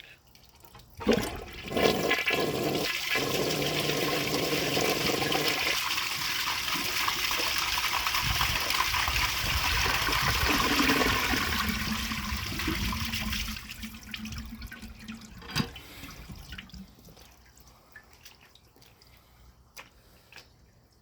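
A 1969 American Standard Cadet elongated toilet flushing. A clunk about a second in starts a loud rush of water that lasts about twelve seconds and then drops away sharply. A single knock follows a couple of seconds later, then fainter trickling and drips.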